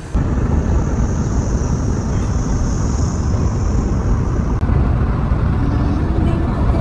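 A car on the move: steady, loud road and engine noise, with a high hiss over it for the first four and a half seconds.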